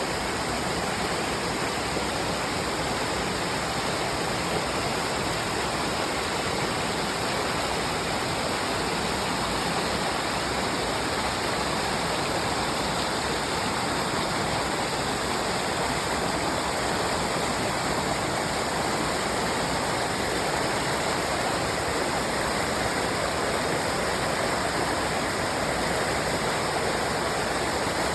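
A large waterfall's water falling and rushing, a steady noise that does not change.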